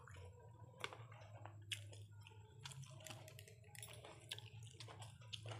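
Faint close-up chewing and mouth clicks of people eating chicken biryani with their fingers, irregular small clicks over a low steady hum.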